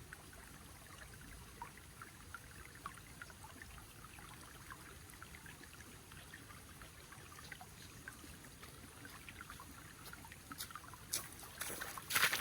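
Faint trickling water with scattered small drips ticking throughout. Near the end come a few louder, sharper knocks.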